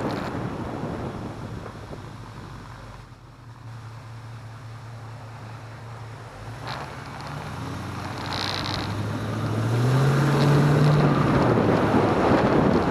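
Car engine running, with a hiss at first that fades. About nine seconds in the engine revs up, rising in pitch and getting loud, and holds there; wind noise on the microphone throughout.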